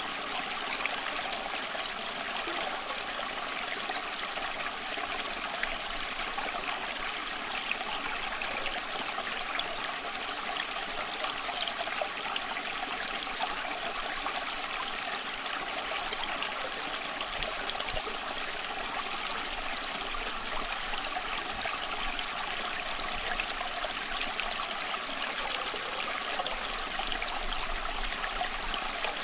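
Small stream flowing and trickling over stones, a steady babble of running water.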